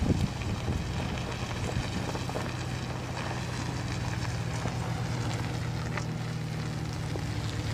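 Car engine running steadily at low speed, a low even hum with light road noise.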